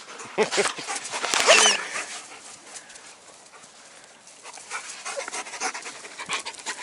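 A dog panting close to the microphone, with a short high-pitched sound about one and a half seconds in, the loudest moment.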